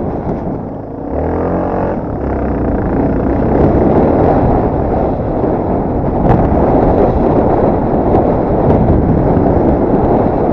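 Yamaha TT250R's single-cylinder four-stroke engine running while the bike is ridden, largely buried under loud wind buffeting on the microphone. The engine's pitched note stands out briefly about a second in.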